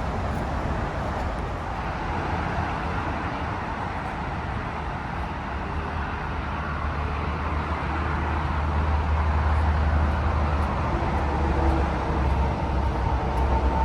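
Heavy diesel engine of a mobile crane running steadily, with a deep rumble and a faint steady whine, growing a little louder about eight seconds in.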